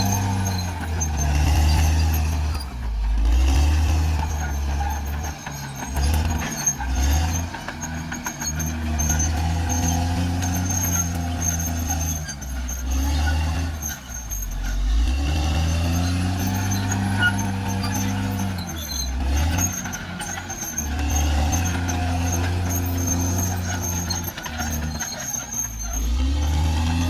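Caterpillar D6R XL bulldozer's diesel engine working under load, its pitch sagging and picking up again many times as the machine pushes, with a faint steady high whine above it.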